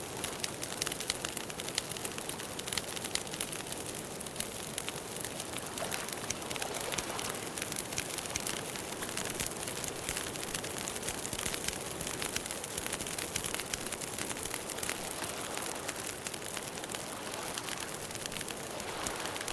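Campfire burning with steady, dense crackling and popping over a soft rushing hiss.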